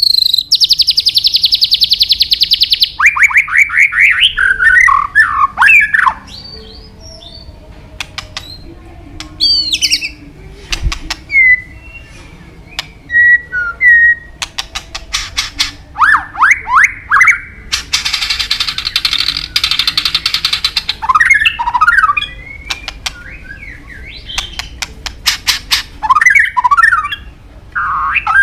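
White-rumped shama (murai batu) singing a loud, varied song full of mimicked phrases: fast rising whistled sweeps, sharp clicks and short whistled notes. Two long buzzy rattles stand out, one starting about half a second in and lasting a couple of seconds, and another about two-thirds of the way through.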